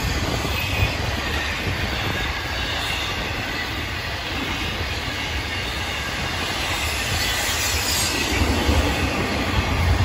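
Florida East Coast Railway intermodal freight train's well cars rolling past: a steady rumble of steel wheels on the rails with faint thin wheel squeal, getting louder near the end.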